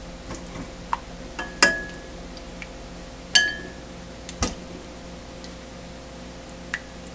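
A few separate sharp clinks of tableware, two of them ringing briefly, with a louder knock about four seconds in, over a steady low hum.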